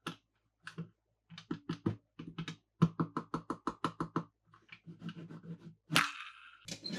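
Toy cars being handled, giving a run of quick light plastic clicks and taps, about six a second in the middle. About six seconds in comes a louder scraping rustle.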